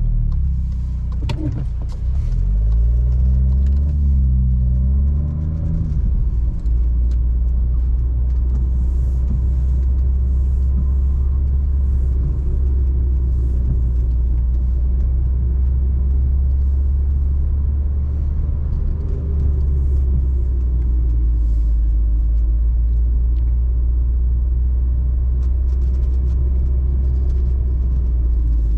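Seat Ibiza FR's 1.0 TSI three-cylinder turbo engine with a Friedrich sport exhaust, driving with a deep, steady drone. The revs rise and fall a few times in the first seconds, then hold steady.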